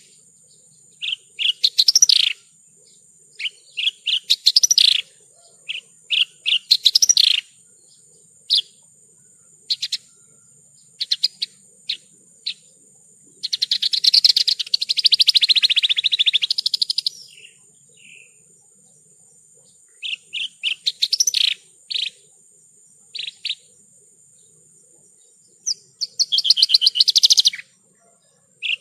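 Javan bush lark (branjangan) singing: short phrases of rapid chirps and trills every second or two, with one longer, denser run of notes about halfway through.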